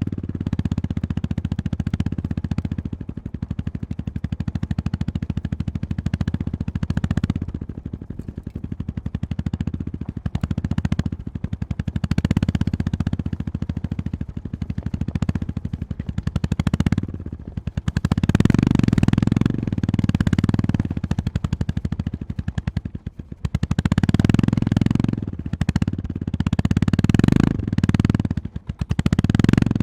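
Honda GB350S's air-cooled single-cylinder engine running at low revs with a rapid, even beat, the throttle opened and eased off several times. There are short drops in level about halfway through and again near the end.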